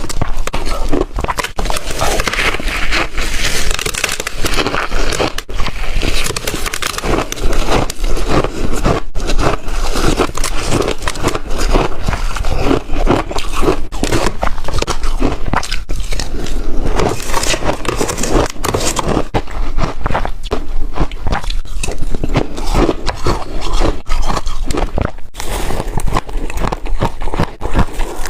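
Chunky ice being bitten and crunched between the teeth, a dense run of loud cracking and crackling crunches.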